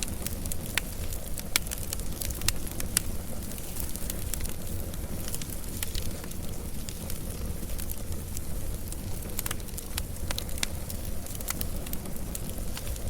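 Wood fire burning with a steady low rumble and frequent sharp crackles and pops at irregular moments.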